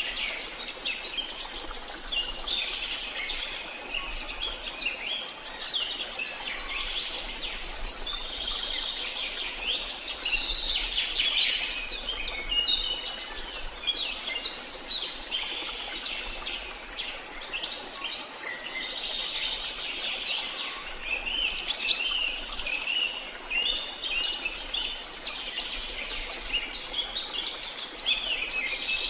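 Many small songbirds chirping and singing together in a dense, continuous chorus of overlapping high chirps and trills.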